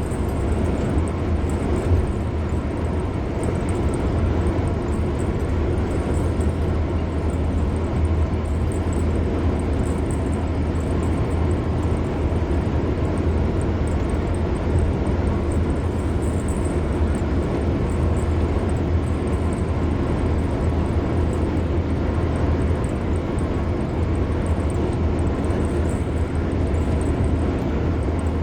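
A car driving steadily at road speed: constant tyre and road noise over a low rumble, with no change in pace.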